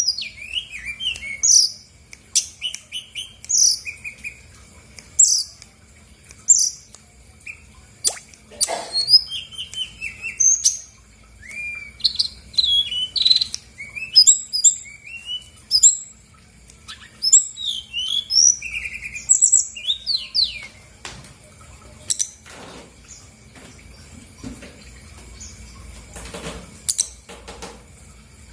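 Brown-chested jungle flycatcher singing a fast, varied string of short chirps, trills and whistled notes, phrase after phrase with brief pauses between them, becoming sparser and fainter near the end.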